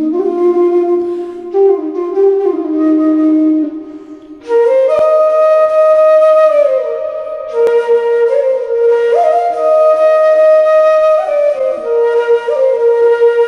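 Background flute music: a slow melody of long, held notes. A lower phrase plays for the first few seconds, then after a brief dip about four seconds in a higher phrase follows.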